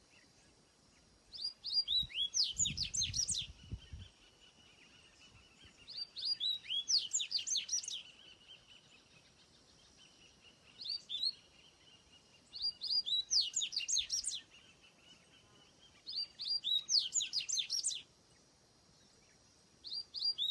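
A songbird singing: about six phrases, each a quick run of high, falling notes, repeated every few seconds.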